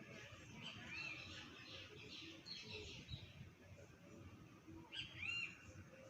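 Birds chirping faintly: short arched calls, a cluster about a second in and another near the end, over a faint low background rumble.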